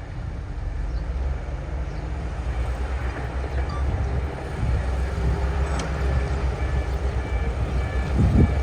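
Heavy diesel earthmoving machinery running steadily with a low engine rumble and the clank of crawler tracks. A regular beeping starts about two-thirds of the way in.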